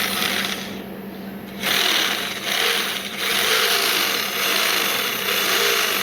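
Metal-turning lathe running, with a steady motor hum and a harsh cutting hiss. The hiss drops away about a second in, then comes back.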